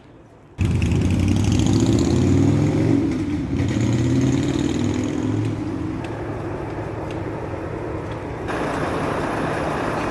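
A motor vehicle engine running, cutting in suddenly about half a second in, rising in pitch as it revs over the first few seconds and then running steadier, with more hiss near the end.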